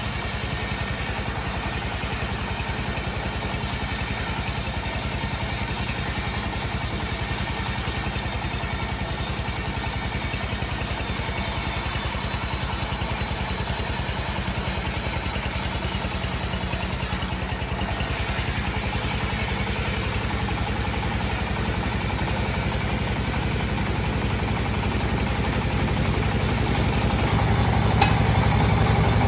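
Sawmill bandsaw machine running steadily, growing a little louder over the last few seconds, with one sharp click near the end.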